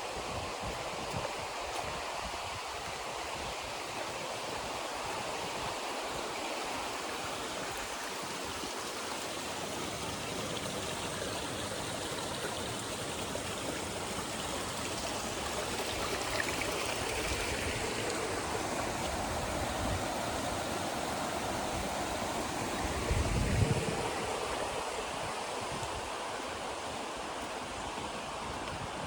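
River water rushing steadily over rocks, growing slightly fuller about halfway through. A brief low bump comes about three-quarters of the way in.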